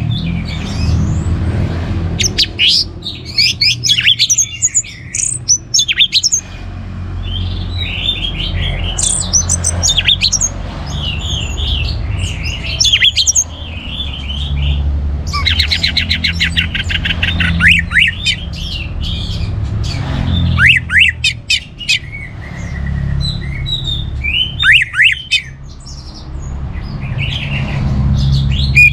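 Orange-headed thrush (Anis Merah) singing a loud, varied song of quick chirps and whistled phrases, with a fast trill of repeated notes about halfway through. A steady low rumble runs underneath.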